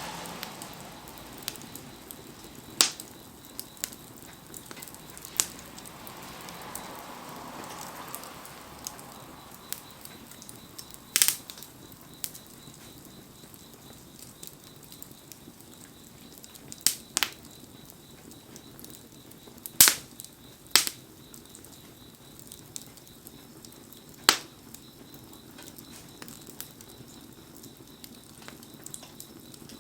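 Wood fire burning with a steady low hiss and a sharp crackling pop from the burning wood every few seconds, the loudest pops about two-thirds of the way through.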